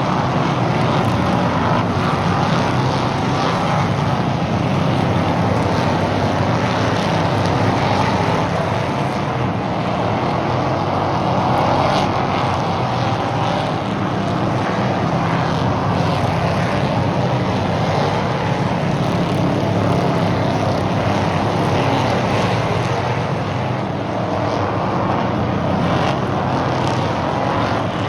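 Stock cars racing around an oval track, their engines running hard in a steady drone that swells and fades gently as the cars come round.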